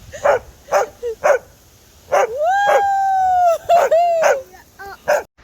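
Kelpie dog vocalising: a few short, sharp yips, then a long drawn-out whine held at one pitch for about a second, a shorter whine right after, and two more quick yips near the end.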